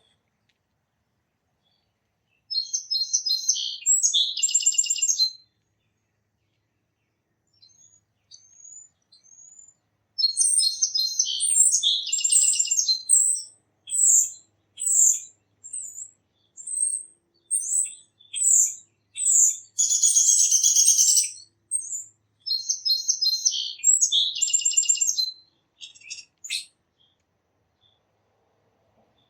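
Songbird singing the same short, trilled song three times, with single high chirps repeated about once a second and a brief buzzy burst between the songs.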